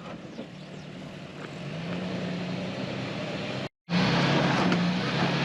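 Off-road vehicle's engine running at low revs, its note rising slightly about two seconds in. The sound breaks off for a moment near the end and comes back louder.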